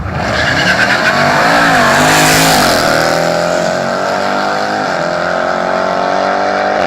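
Jeep Grand Cherokee Trackhawk's supercharged V8 at full throttle on a drag run, starting suddenly. The engine note climbs and drops back with upshifts about one and a half, three and five seconds in.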